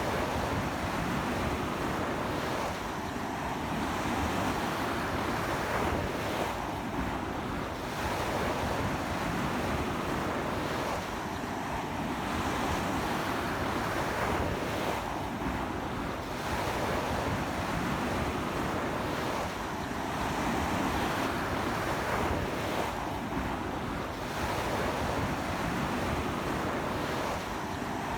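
Strong sea surf breaking and washing up a beach in a stiff onshore wind, with wind buffeting the microphone. It is a continuous rush that swells every few seconds as waves come in.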